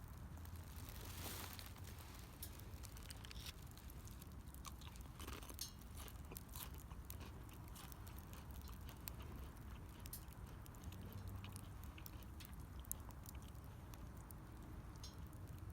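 Wood fire crackling, with irregular sharp pops and ticks scattered throughout over a low steady rumble.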